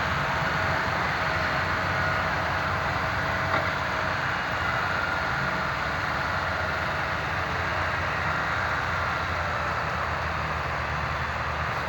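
Tractor engine running steadily with a low rumble, with one brief click about three and a half seconds in.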